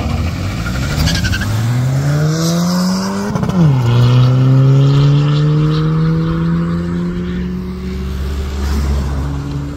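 Car engine under hard acceleration from a standing start, its pitch climbing steadily, falling sharply at a gear change about three and a half seconds in, then climbing more slowly in the next gear, with another drop near the end.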